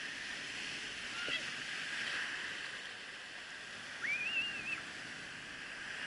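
Ocean surf washing steadily at the shore. About four seconds in, a short, high, wavering cry rises above the waves, with a fainter short one about a second in.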